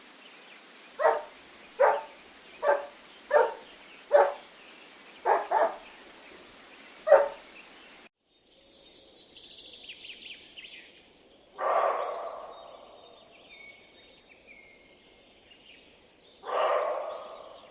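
A dog barking eight times in a steady series, about one bark a second. After a sudden cut come faint high bird chirps and two louder, noisy calls about five seconds apart.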